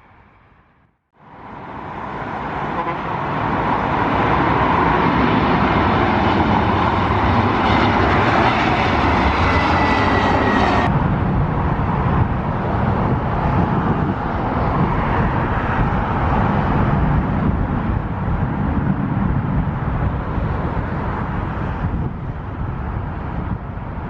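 Jet airliner's engines, loud, starting about a second in, with a faint whine sliding down in pitch. About halfway through the high hiss drops away suddenly while the low rumble carries on.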